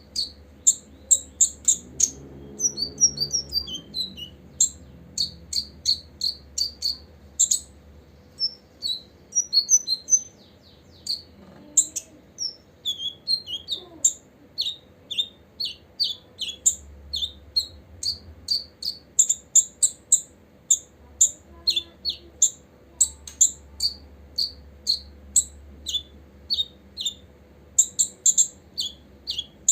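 Copper-throated sunbird calling: a long, rapid run of short, high-pitched chirps.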